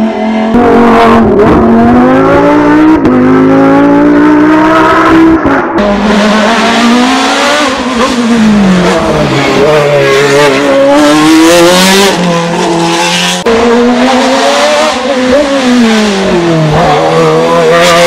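A racing car's engine at high revs. Its pitch climbs through the gears and drops sharply at each upshift, about twice, and falls away twice as the car lifts off for bends.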